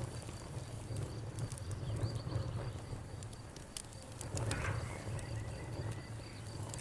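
Wood fire crackling with scattered sharp pops over a low steady rumble, while crickets chirp in an even, rapid pulse and a bird calls briefly about five seconds in.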